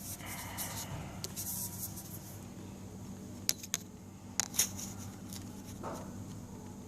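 A few sharp metallic clicks and clinks of hand tools and loose parts being handled, mostly in a quick cluster in the middle, over a steady low hum.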